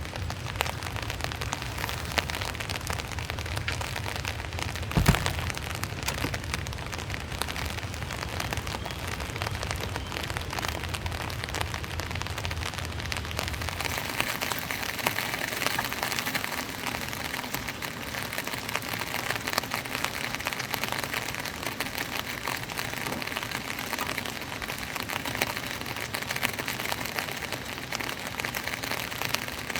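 Heavy typhoon rain falling hard, with a low wind rumble under it for the first half and one sharp thump about five seconds in. About halfway through, the rumble drops away and the rain sounds higher and harsher.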